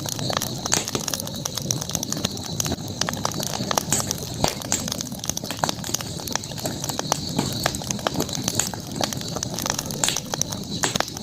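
Campfire burning, crackling with many small irregular pops, over a steady high-pitched background drone.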